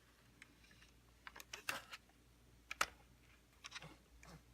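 Faint, scattered clicks and taps of small plastic parts being handled and fitted: a robot vacuum's detectors being pushed into their slots in the plastic chassis, with one sharper click near the middle.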